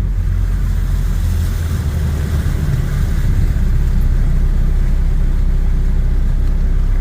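Saturn Ion car engine running at low speed while the car wades through deep flood water over the road, with a steady rush of water that grows louder about three seconds in.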